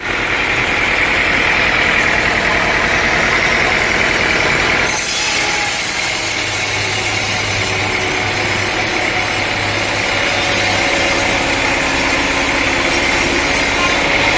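Sawmill machinery running steadily, an engine drone with the saw running. The sound changes abruptly about five seconds in.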